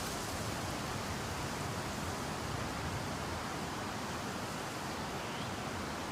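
Heavy rain making a steady rushing noise.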